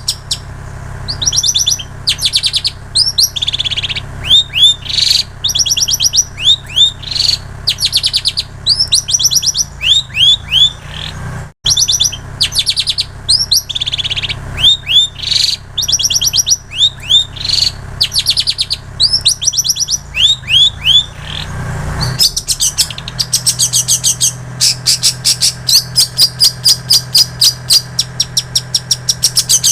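Long-tailed shrike (cendet) singing a fast, repetitive song of rapid high trills and short chirps, mimicking plain prinia (ciblek sawah) and canary phrases. The song breaks off for an instant about twelve seconds in, and from about twenty-two seconds the trills come faster and run together. A low steady hum runs underneath.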